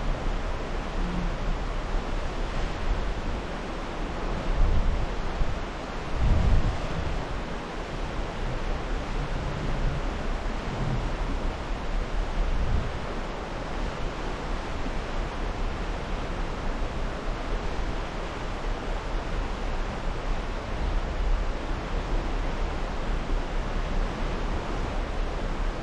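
Steady rush of wind and water on an open cruise-ship deck, with wind buffeting the microphone in a couple of louder gusts about five to seven seconds in.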